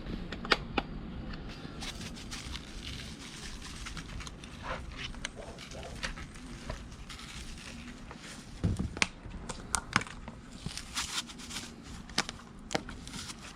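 Hands seasoning cut fish pieces: scattered clicks, light taps and crinkling of containers and wrapping, with one dull knock about nine seconds in.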